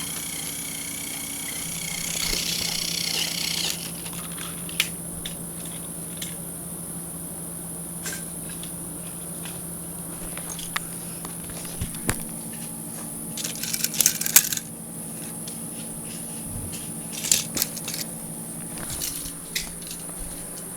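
Battery-powered TOMY toy train running on plastic track: a steady electric motor hum with scattered clicks and clacks as it rolls over the track joints, louder bunches of clicks twice near the middle and later.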